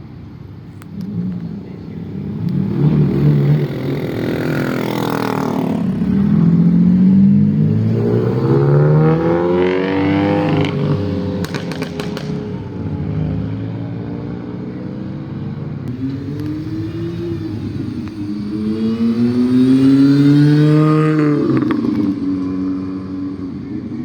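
Car engines revving hard as cars drive off one after another: three surges that climb in pitch and fall away, with a brief clatter about eleven seconds in.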